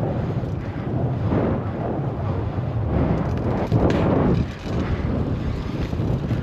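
Wind buffeting a GoPro's microphone on a moving bicycle: a loud, gusty low rumble that swells and dips, heaviest a little before the middle.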